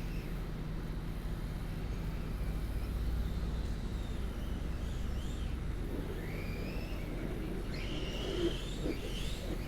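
Steady low rumble that swells about three seconds in, with birds chirping faintly in the second half.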